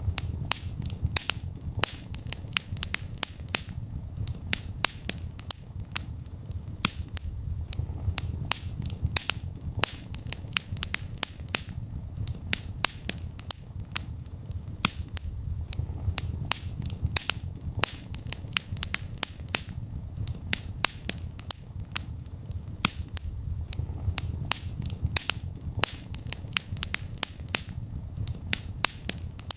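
Fireplace fire crackling: many sharp pops and snaps at irregular intervals, several a second, over a steady low rumble of the flames.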